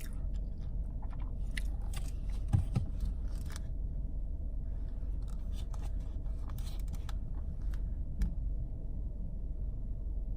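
Steady low hum inside a car, with scattered small clicks and scrapes.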